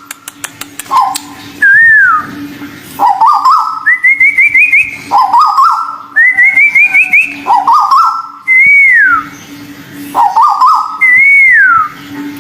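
Whistled calls of the white-billed tuwu bird, repeated again and again: quick stepped series of rising notes alternating with single long whistles that slur downward, over a faint steady hum.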